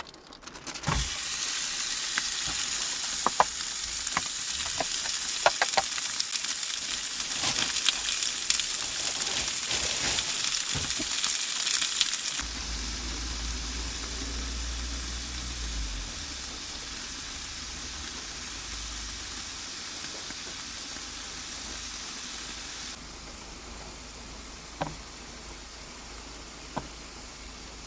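Steak sizzling and frying in a hot pan, starting suddenly about a second in and loudest for the first dozen seconds, then quieter. A few light clicks come near the end.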